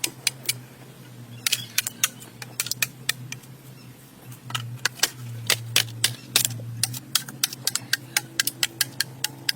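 Irregular sharp clicks and taps, a few to several a second, over a low steady hum that comes and goes.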